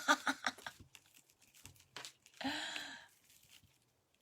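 Faint crinkling and rustling of plastic deco mesh being handled, with one short breathy vocal sound about two and a half seconds in.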